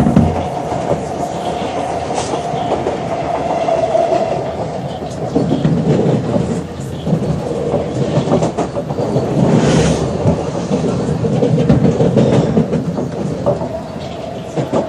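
SMRT C651 metro train running on the rails: a steady whine over a rumble, with wheels clattering on the track, getting louder in the middle.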